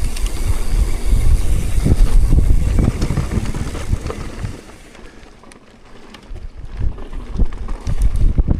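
Wind buffeting the microphone: a loud, gusty low rumble with irregular thumps. It eases off about five seconds in and builds again near the end.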